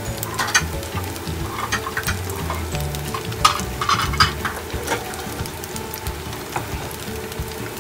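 Onion kakiage fritters deep-frying in canola oil in a deep frying pan: a steady sizzle with scattered crackling pops, busiest between about half a second and five seconds in.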